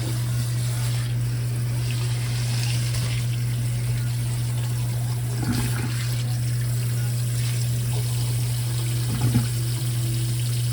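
Water running steadily, like a kitchen tap, over a constant low hum, with a couple of small knocks.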